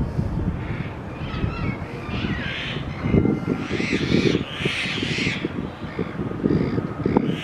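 Harsh, squawking calls from a flock of feeding birds, several in a row and loudest about three to five seconds in, over a low rumble.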